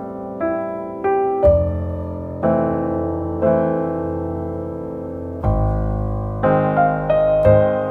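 Background music: a slow piano piece, chords and single notes struck about once a second and left to ring.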